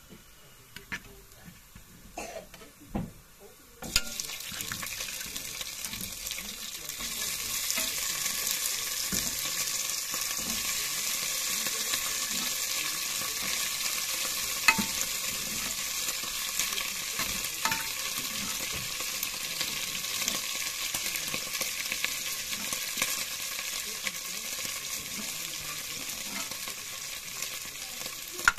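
Beef frying in hot oil in an aluminium pot: a steady sizzle that starts about four seconds in, with the metal spoon clicking and scraping against the pot a few times.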